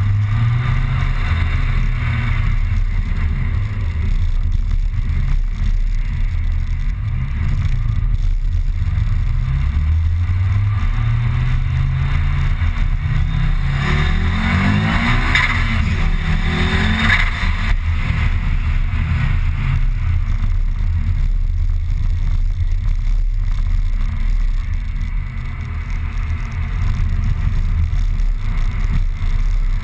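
Car engine heard from inside the cabin under hard acceleration: its pitch climbs in several steps through gear changes over the middle of the stretch, then settles to a steady drone, over continuous road and tyre noise.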